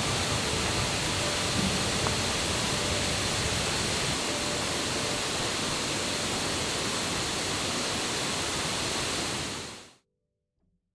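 Steady rush of a forest waterfall and rain-swollen stream, fading out near the end.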